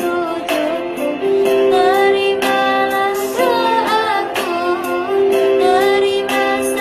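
A child singing a gliding, ornamented melody over instrumental backing with long held notes.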